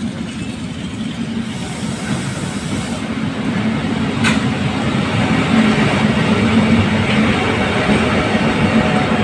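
Diesel-electric locomotive hauling a passenger train as it approaches and passes close by, its engine running and its wheels rumbling on the rails, growing louder as it draws level and the coaches roll past. A brief sharp click about four seconds in.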